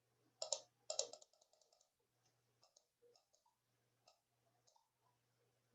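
Two short bursts of clicks, about half a second apart near the start, then near silence with a few faint ticks.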